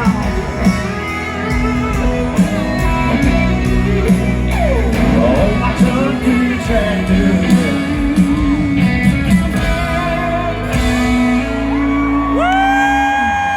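Live country-rock band playing the closing bars of a song with electric guitar and drums, ending on a long held, rising guitar note near the end.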